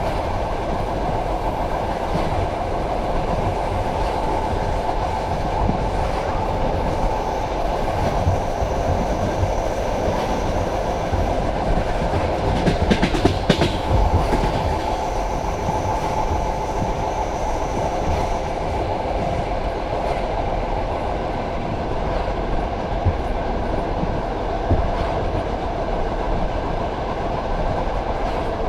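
Passenger train carriage running at speed: a steady rumble of wheels on rails. About halfway through comes a brief burst of louder, sharper clatter.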